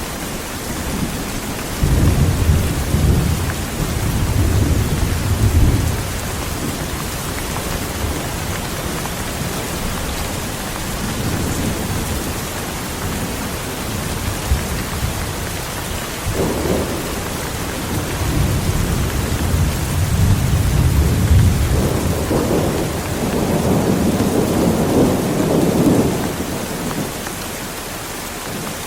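Heavy rain falling steadily, with rolling thunder: a rumble starting about two seconds in and lasting a few seconds, a short one midway, and a longer one building from about eighteen seconds in and dying away a few seconds before the end.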